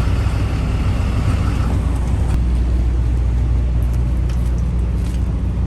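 Truck's engine running with a steady low rumble, heard from inside the cab while it moves slowly to park.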